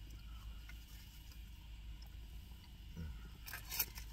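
Low steady hum, then near the end a quick cluster of crinkling and scraping, like a paper or foil wrapper being handled.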